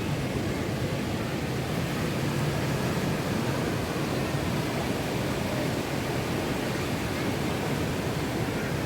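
Rough sea in monsoon wind: a steady, unbroken rush of surf and wind with no single wave standing out.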